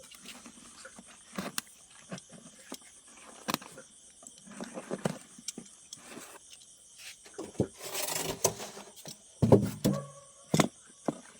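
Leaves rustling and stems snapping as salad greens are picked by hand, in irregular clicks and crackles with a longer rustle about eight seconds in and a couple of heavier thuds soon after, over a steady high-pitched hum.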